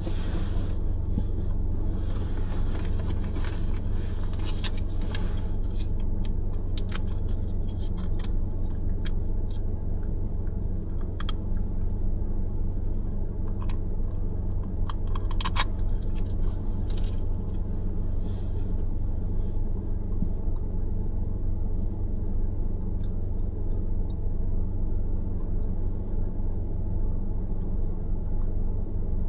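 Car driving on a city road: a steady low rumble of engine and tyre noise, with scattered light clicks and rattles through the first two-thirds.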